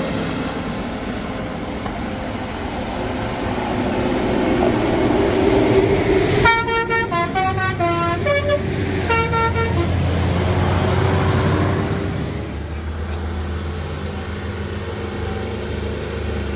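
Heavy vehicle engines running steadily, swelling in loudness, with a multi-tone musical horn sounding midway: a run of notes stepping up and down for about two seconds, then a short final toot.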